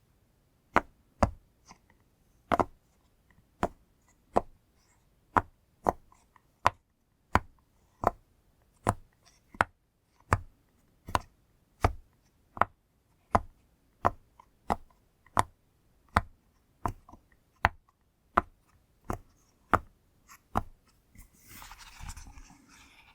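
Pop toy's bubbles being pressed one after another, each giving a sharp pop, about one and a half pops a second, with a brief rustle of handling near the end.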